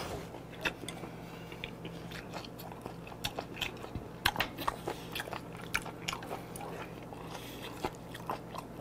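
Close-up chewing of raw beef and chopped raw octopus, with many short wet clicks and smacks of the mouth scattered throughout. A low steady hum lies underneath.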